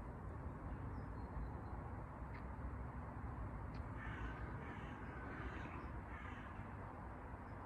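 A bird calling several times in quick succession about halfway through, over steady low background noise.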